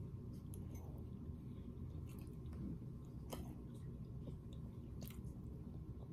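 A person chewing a mouthful of rotisserie chicken: quiet mouth sounds, with two faint clicks about three and five seconds in.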